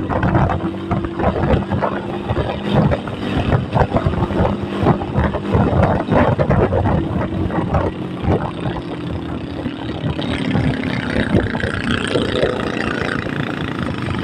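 Engine of a moving road vehicle running steadily, with rough wind and road rumble. A higher, slowly rising tone joins in over the last few seconds.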